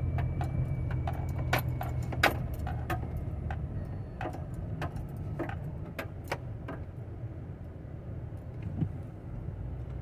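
Low steady hum of a vehicle heard from inside the cab, louder for the first couple of seconds and then easing, with irregular light clicks and jingles scattered over it.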